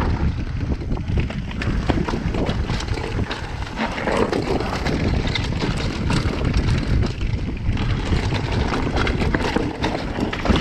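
Wind buffeting a chest-mounted GoPro's microphone during a fast downhill mountain bike descent, with tyre roar on the dirt and frequent sharp clattering knocks as the bike rattles over rough ground.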